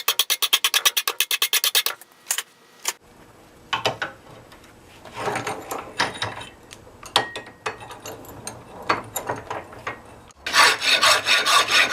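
Horseshoe rasp filing a carbon-steel cold chisel by hand, in rapid, even strokes. About two seconds in it drops to lighter, scattered scraping and clicks. Near the end the fast filing strokes start again.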